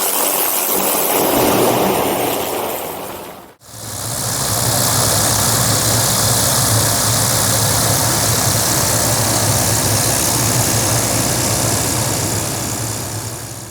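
MD500D helicopter's turbine engine and rotor running, a loud steady mix of engine noise and wind hiss. About three and a half seconds in, the sound fades out briefly and comes straight back, steady, with a low throb underneath.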